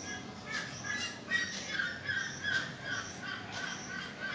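Birds chirping in a quick run of short, repeated notes.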